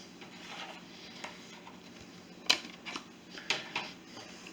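A few sharp plastic clicks and light handling clatter as a DVD and its case are handled, loudest about halfway through, with three more clicks in the following second or so.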